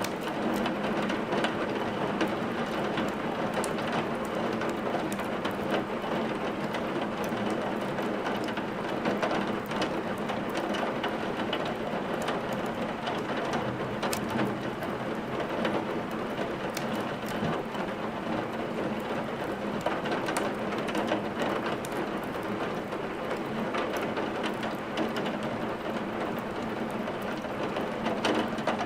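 Steady rain falling, mixed with a crackling wood fire in a fireplace: an even hiss with scattered sharp pops and ticks.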